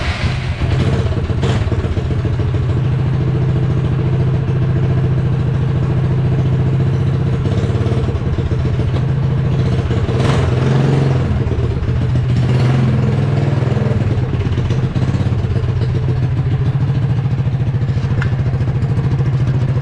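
Cyclekart's small engine running steadily and loudly through a plain exhaust pipe with the stock muffler removed, giving an open, unmuffled bark.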